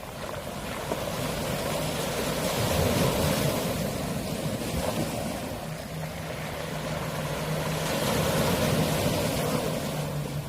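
Small waves washing in and out on a pebble beach, the water rolling and rattling the stones, swelling and easing in surges. About halfway through, a steady low motor hum comes in under the surf.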